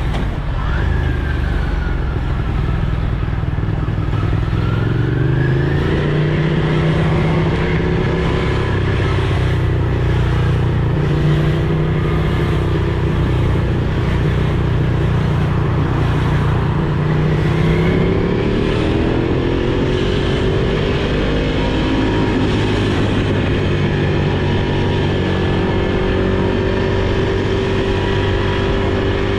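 Motorcycle engine running under way, its pitch holding steady for long stretches and climbing twice, about five seconds in and again around twenty seconds in, as the revs change.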